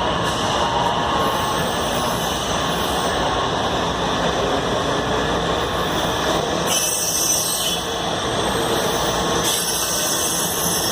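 Washington Metro railcars moving through the station, a steady dense rumble of wheels on rail and traction equipment, with the higher sounds changing about seven seconds in.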